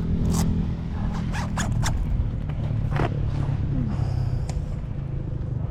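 Several short rasps and clicks of something being handled, over a steady low engine hum.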